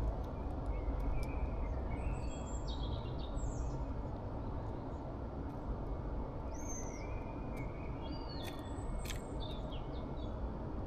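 Small songbirds giving scattered short chirps and calls, a cluster in the first few seconds and another in the second half, over a steady low background rumble.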